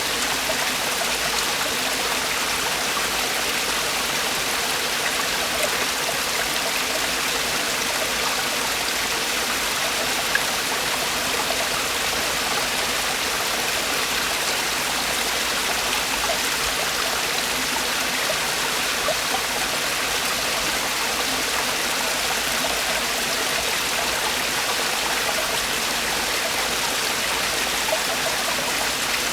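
Mountain valley stream water falling and splashing over rocks, a steady, even rush that does not change.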